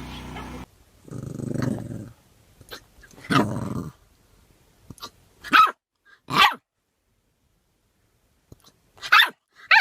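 A dog growling in two long grumbles, then giving short sharp barks: two about a second apart, and two more near the end.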